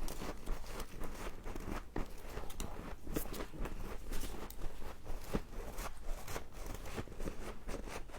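Freezer frost being bitten and chewed: a run of many irregular, crisp crunches.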